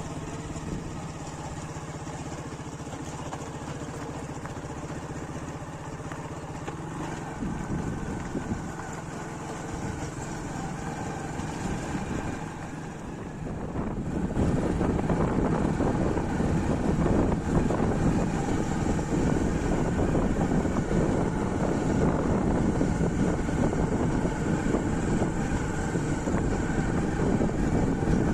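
An engine running steadily, growing louder and rougher about halfway through.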